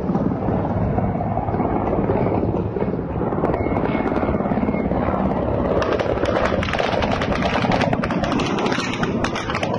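Helicopter flying low overhead: a loud, steady, fast rotor chop that turns harsher from about six seconds in.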